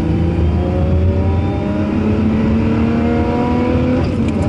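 Lotus Evora 400's supercharged 3.5-litre V6 accelerating hard, heard from inside the cabin. The engine note rises steadily in pitch, then drops sharply near the end.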